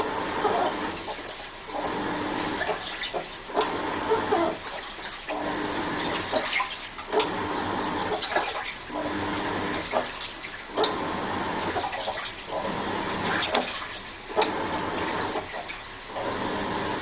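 Washing machine agitating its load. Water sloshes in back-and-forth strokes a second or two long with short pauses between, and each stroke carries a steady whining tone. This odd, rhythmic noise is what the owner finds strange.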